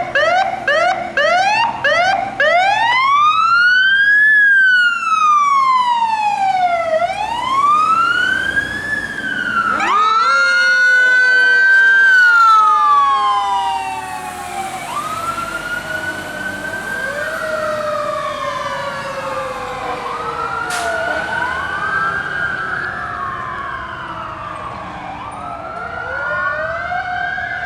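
Fire truck sirens: a siren yelping in quick rising chirps switches to a slow rise-and-fall wail. About ten seconds in, a second siren sweeps up and then slowly falls, and the two wail together, growing fainter as the trucks pass and move off.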